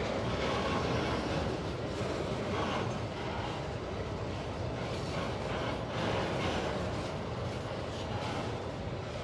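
Empty pulp freight train rolling past: a steady rumble of steel wheels on rail, with rattling from the empty wagons.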